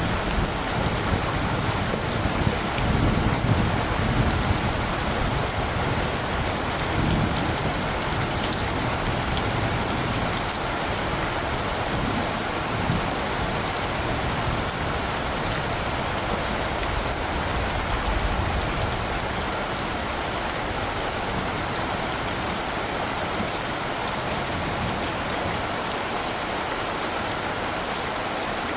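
Steady rain falling, a dense hiss with many fine drop ticks, with low rumbles of distant light thunder in the first twenty seconds or so that die away toward the end.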